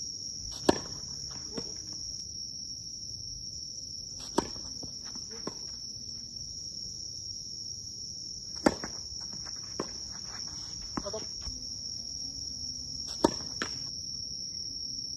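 Tennis balls struck by rackets during a doubles rally: four sharp pops, a few seconds apart, with fainter hits in between. A steady, high insect drone runs underneath.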